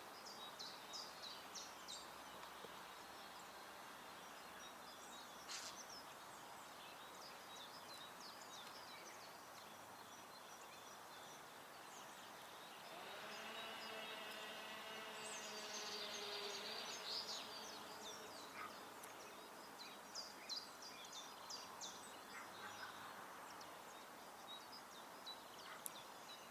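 Small garden birds give short, high chirps and calls here and there over a steady outdoor background hiss. About halfway through, a distant engine hum swells for several seconds, dips slightly in pitch and fades away.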